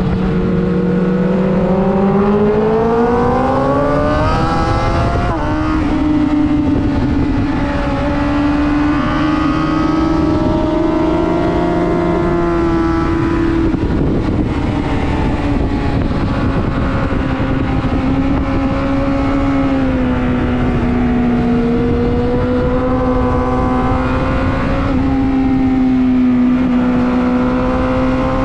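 Superbike engine running hard on a race track, its pitch climbing through the revs and dropping sharply at gear changes, about five and fourteen seconds in, then rising again near the end, over a steady rush of noise.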